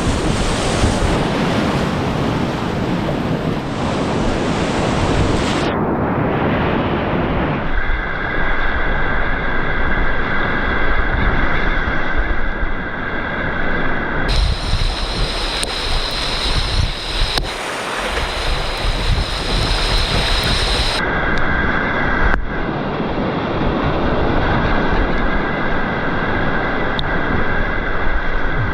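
Rushing whitewater with wind buffeting the microphone, loud and steady, its character changing abruptly several times as the clips change.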